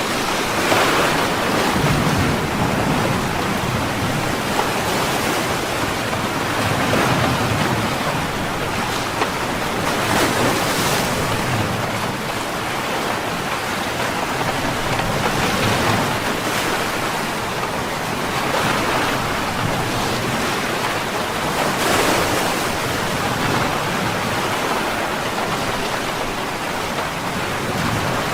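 Ocean waves breaking and washing in a steady hiss of surf, swelling every few seconds, with rain falling over it.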